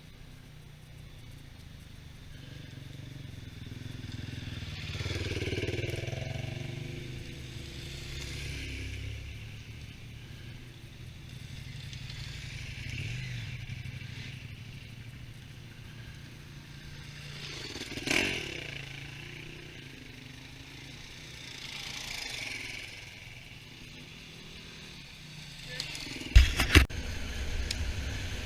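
Honda Africa Twin motorcycle running on the road, its engine note steady underneath and the overall sound swelling and easing several times. A few sharp knocks near the end are the loudest sounds.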